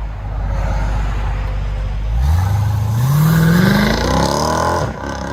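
Jeep Grand Cherokee SRT's 6.4L HEMI V8 with a mid-muffler delete and X-pipe, at a low steady rumble and then accelerating hard about two seconds in. The exhaust note rises steeply in pitch and breaks briefly near the end.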